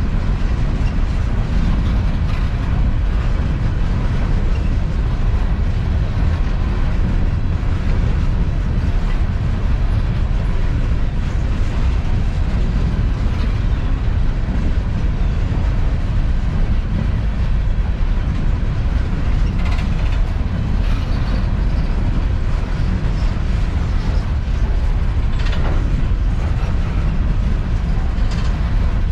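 Empty coal hopper cars of a freight train rolling past, a steady loud rumble with the rattle and creak of the cars, and a few sharp knocks about two-thirds of the way in and near the end.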